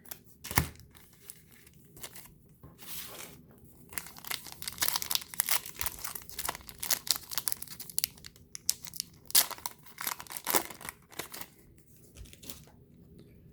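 Wrapper of a Chronicles basketball card pack being torn open and crinkled, in irregular crackling bursts that are densest between about 4 and 11 seconds in.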